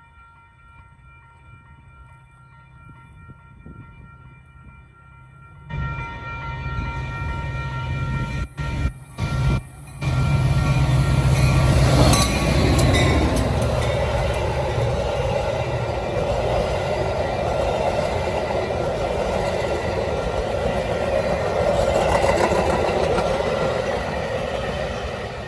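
Metra commuter train with a diesel locomotive: its engine rumble comes in suddenly about six seconds in. From about ten seconds on, the train passes close with loud, steady rolling noise.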